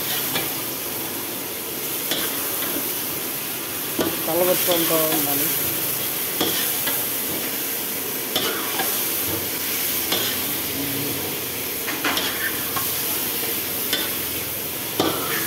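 Chicken pieces sizzling in hot oil in a steel kadai while a metal spatula stirs them. The spatula scrapes and knocks against the pan every second or two over a steady frying hiss.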